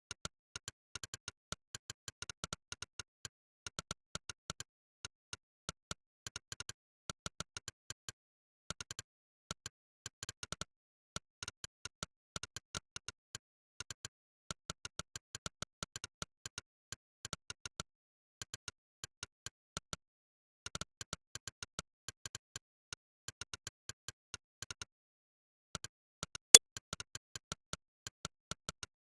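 Monkeytype's synthetic "click" keypress sound, one click per keystroke, coming in quick runs of several clicks a second with short pauses between. One click near the end is much louder than the rest.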